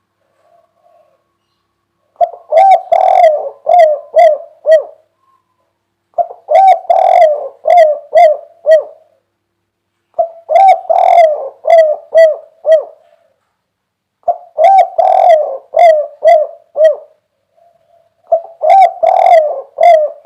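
Spotted dove (derkuku) cooing its 'kuk 3' song: five loud phrases about four seconds apart, the first about two seconds in, each a run of several coos.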